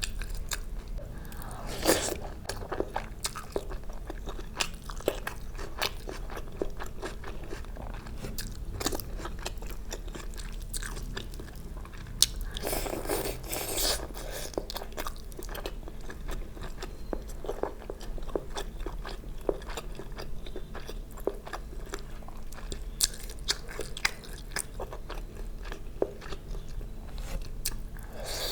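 Close-miked eating: a person biting and chewing food, with many small sharp crunches and clicks and a couple of longer, denser chewing passages.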